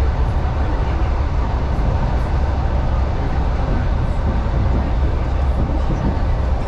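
Suburban electric train running, heard from inside the carriage: a steady low rumble of wheels on the rails.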